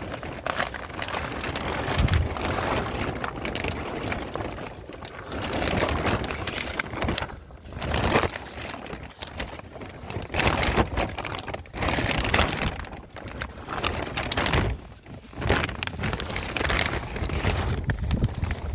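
Gusty wind buffeting the microphone, rising and falling in uneven surges every second or two.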